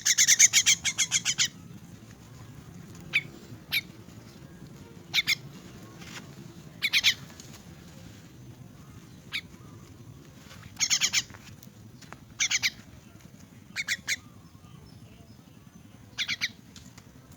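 Young myna calling in short bursts, each burst a quick run of repeated high notes. The first burst is the longest, about a second and a half, and shorter bursts follow every one to two seconds. These are the calls of a hand-fed orphaned chick at feeding time.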